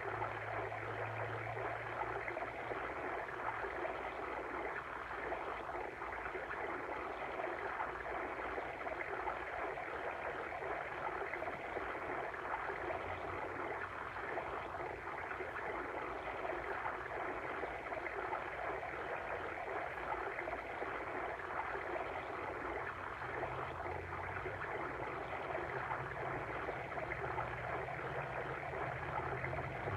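Water stream flowing steadily: an even, unbroken rush of moving water.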